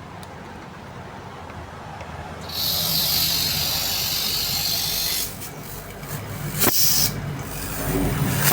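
Refrigerator compressor under test, humming low while air hisses out of it. A loud hiss starts about two and a half seconds in and lasts nearly three seconds, then comes back in shorter bursts with a sharp click before the end.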